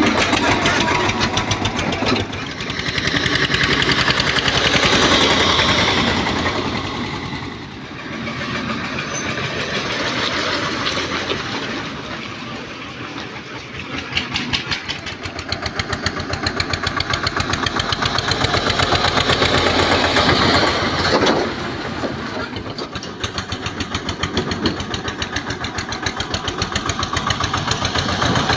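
Eicher 242 tractor's two-cylinder air-cooled diesel engine running with a rapid, even chugging. Its loudness rises and falls, dipping about eight seconds in and again around the middle before picking up.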